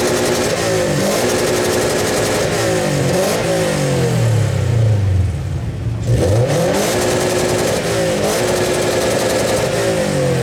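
2013 Scion FR-S's 2.0-litre flat-four engine revved hard through its exhaust for a decibel test, the pitch climbing and falling back several times with a short lift-off about six seconds in. The sound meter reads 108.9 dB.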